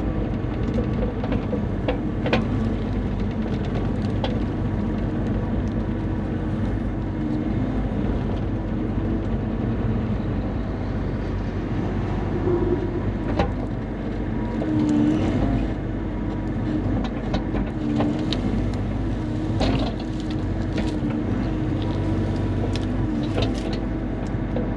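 Bobcat E35 mini excavator's diesel engine running steadily under hydraulic load, its hum shifting in pitch now and then as the hydraulics work, with scattered sharp knocks and clunks as the bucket handles spruce logs.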